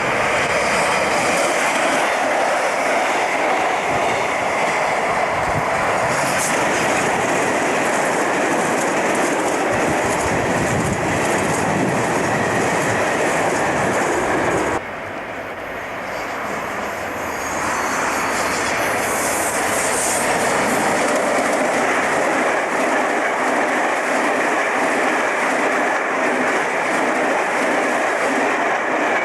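A train running past close by, its wheels on the rails making a loud, steady rush. About halfway through the sound drops suddenly, then builds back up to full loudness.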